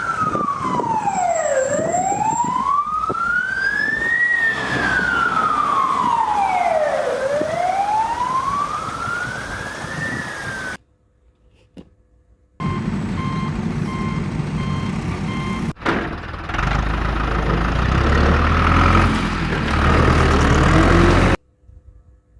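A siren wailing in slow sweeps, falling and rising about every three seconds, then cutting off abruptly. After a short gap comes a low engine-like rumble with short repeated beeps, which grows into a heavy rumble for the last few seconds before stopping suddenly.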